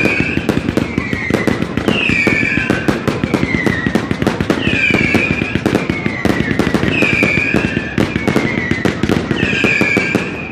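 Fireworks fired at close range: mortars and multi-shot tubes going off in a fast, dense, unbroken string of bangs and crackles. A high whistle recurs through it about once a second, arching and dipping in pitch.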